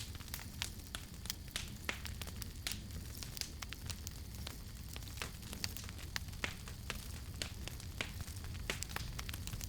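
Campfire crackling: wood burning with frequent irregular sharp pops and snaps over a low, steady rumble of the fire.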